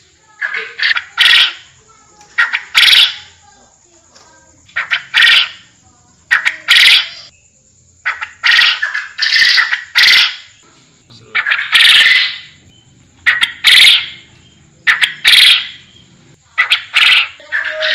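Forest quail (puyuh hutan) calling over and over, about one call every one and a half to two seconds, each a short note followed at once by a longer, louder one.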